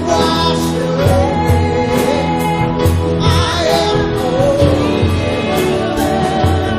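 Worship band playing a slow song with a singer's voice over it, held chords and a steady low beat.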